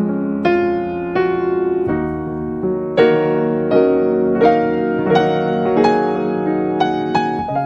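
Background piano music: slow chords and melody notes struck about every half second to second and left to ring.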